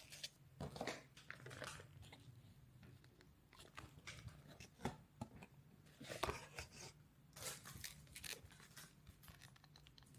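Faint, irregular short rustles and crinkles of something being handled, over a low steady hum.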